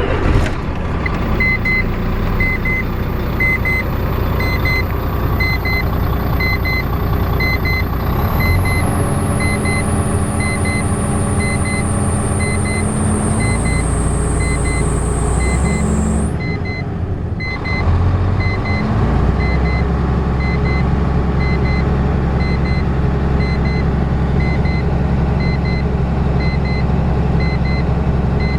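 Volvo FH12's D12C six-cylinder diesel running steadily just after starting, on freshly repaired injectors. A short electronic beep repeats about twice a second throughout. A high whine falls in pitch and cuts off a little past halfway, and the engine note shifts briefly before settling again.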